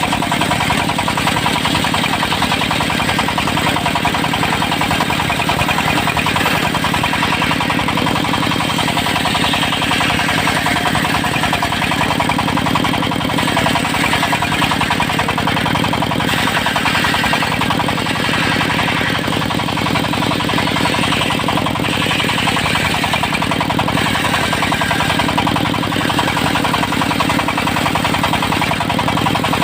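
Diesel engine running steadily under load, driving a circular sawmill blade through teak, with the hiss of the cut swelling and fading several times.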